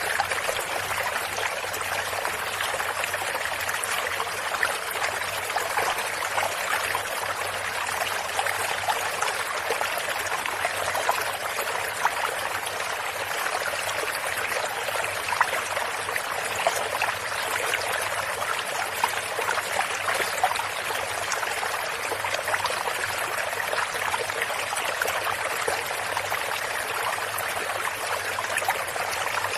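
Water of a small stream running over stones, a steady trickling and splashing flow.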